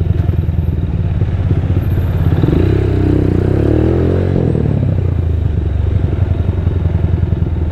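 250cc motorcycle with a custom Orion muffler running under way in traffic, the engine note rising and falling about two to four seconds in.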